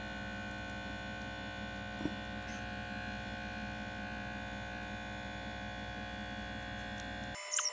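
Steady electrical hum made of several fixed tones, with a faint click about two seconds in; the hum changes abruptly near the end.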